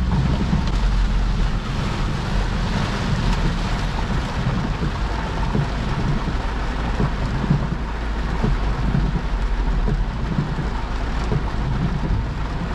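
Heavy rain beating on a car's roof and windscreen, heard from inside the cabin: a steady dense hiss with a low rumble underneath.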